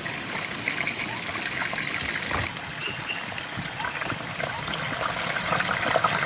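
Water trickling and running steadily, with many small splashy ticks.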